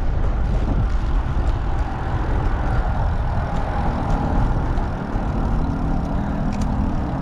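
Road traffic going past a moving bicycle, with a steady rumble of wind on the microphone and an engine note that rises slowly over the last few seconds.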